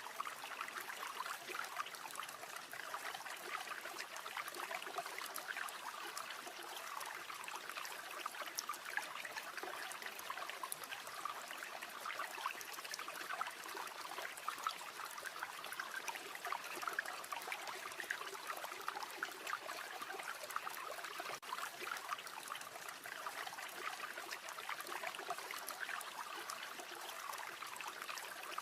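River water flowing steadily over stones, an even babbling rush.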